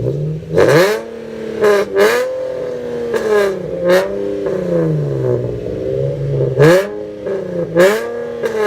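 A loud car engine being revved over and over in quick blips, its pitch climbing sharply and falling back between them. There are about seven sharp peaks in all.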